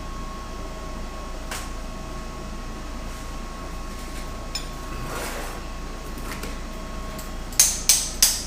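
Three sharp knocks in quick succession near the end, over a steady shop hum with a soft rushing swell about halfway through.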